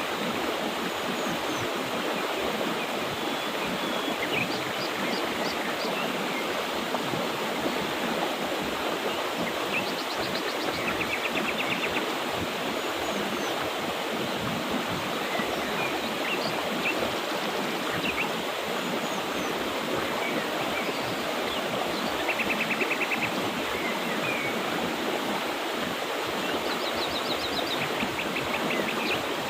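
Mountain river running with a steady rush of water, while small birds chirp and now and then give short, rapid trills.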